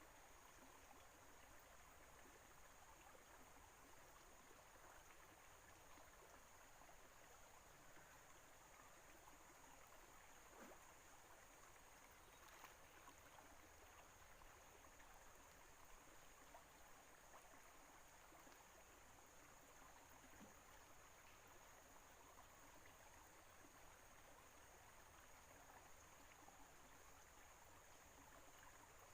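Near silence: faint steady background hiss with a thin, high steady tone and a few faint ticks.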